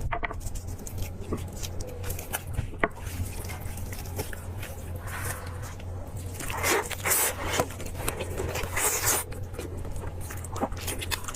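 Close-up eating sounds of pork chop: irregular wet chewing, biting and mouth clicks, with a few louder bites in the middle stretch, over a steady low electrical hum.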